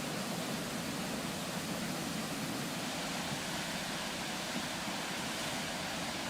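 Floodwater rushing: a steady, even rush of water.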